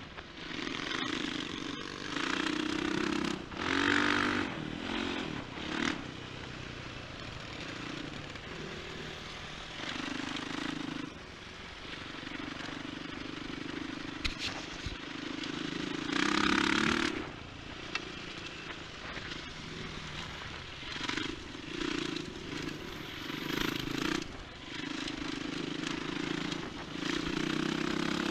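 Enduro motorcycle engine running on the move, its note rising and falling with the throttle. Several brief loud rushes of noise sit on top of it.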